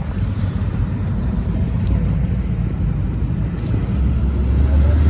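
A car engine running nearby with a low rumble that grows stronger and deeper about four seconds in.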